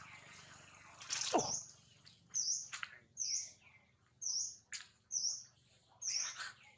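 A bird chirping over and over, a short high chirp that dips and rises, about once a second, with other brief high calls around it. About a second in, one louder call slides steeply down in pitch.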